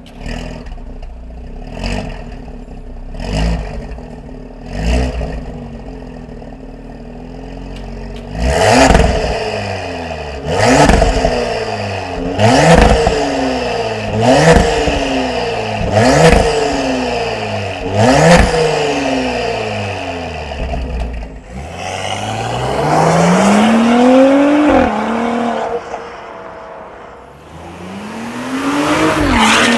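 Porsche Cayenne 3.0T V6 through an aftermarket turbo-back exhaust with a catalytic downpipe and a valved catback. First a few light throttle blips with the exhaust valves closed, then about seven loud, sharp revs with the valves open, each falling straight back. Then the car accelerates under load, the engine note climbing, dropping at an upshift and climbing again.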